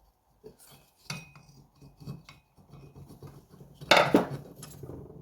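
Metal-on-metal clinks, taps and scrapes as a tool levers the cylinder head off a small 50cc two-stroke engine, with a brief high ring of metal and a louder clank about four seconds in.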